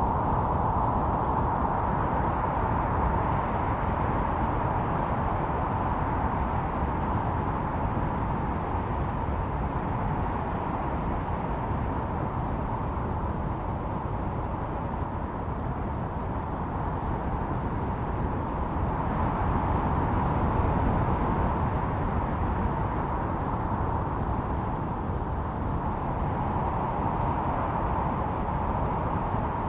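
Blizzard wind blowing steadily with a low rush, a howling band swelling and easing in slow gusts every several seconds.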